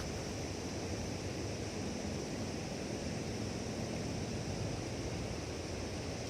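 Steady rushing outdoor background noise with no distinct events, an even hiss with a faint constant high band above it.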